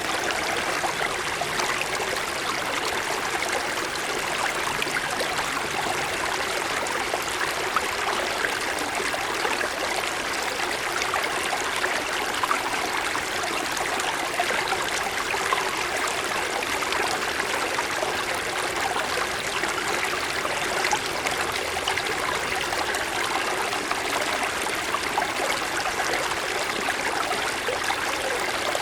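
Mountain stream flowing over snow-covered stones: a steady rush of water with small splashes and trickles.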